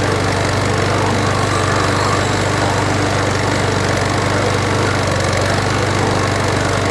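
A 140cc Power More single-cylinder lawn mower engine running steadily, warming up so its failure to restart when hot can be tested.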